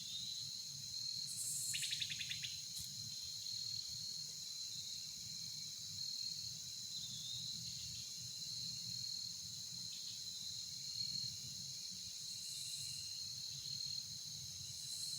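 Evening insect chorus of crickets, a steady high-pitched singing, with a brief rapid chirping about two seconds in.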